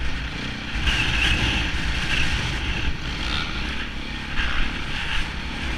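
Onboard sound of a KTM enduro motorcycle's engine running under throttle on a dirt track, getting louder right at the start and swelling several times.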